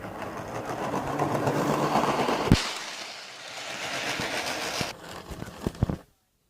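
Model train running along its track close by, its small electric motor humming with the wheels' running noise. There is a sharp click about two and a half seconds in and a few more clicks near the end.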